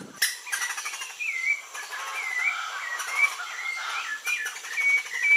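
Birds chirping and calling: many short whistled notes that glide up and down in pitch, repeating closely one after another. They start abruptly just after the beginning.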